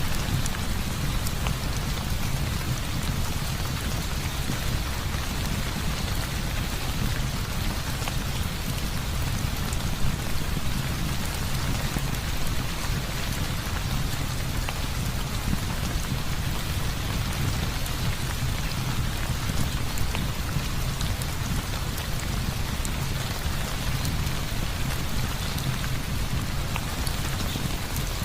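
Heavy rain falling steadily, a continuous hiss with a deep low rumble under it and scattered small ticks; one tick about ten seconds in stands out a little louder.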